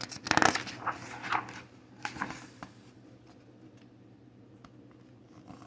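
Paper rustling from a picture book's page being turned, a few rustles in the first two and a half seconds, then only faint room tone with small clicks.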